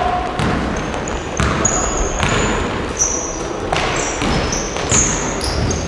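Basketballs bouncing on a gym floor, a run of repeated thuds, with short high squeaks of basketball shoes on the court several times.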